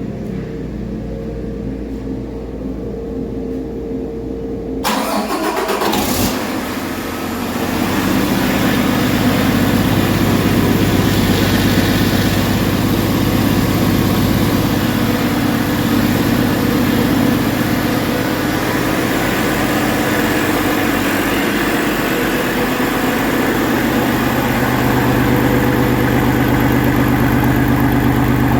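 Paccar MX13 inline-six diesel engine starting about six seconds in, after a steady low hum, then running steadily at idle.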